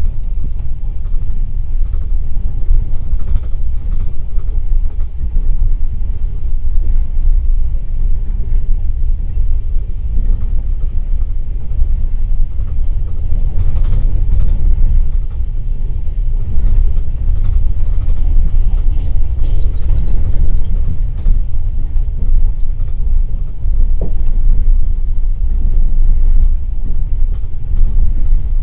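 Passenger train running along the line, heard from inside a third-class sleeper car: a steady heavy rumble of wheels on rails with scattered clicks.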